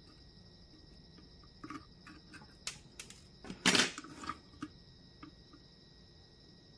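Small clicks, taps and a brief scrape of hand tools working on a circuit board, clustered in the middle with the loudest scrape about halfway through, over a steady high-pitched whine.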